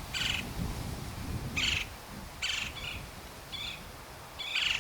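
A bird giving short calls, about six in all, roughly one a second.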